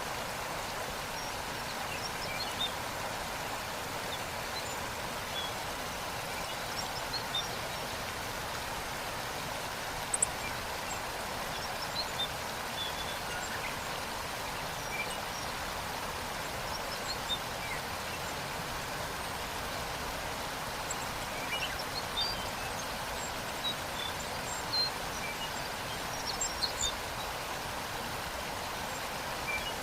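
Steady rushing of a waterfall, with brief bird chirps scattered throughout.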